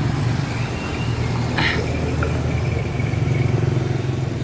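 A small motorcycle engine running steadily, picking up a little about three seconds in, with a brief clatter about one and a half seconds in.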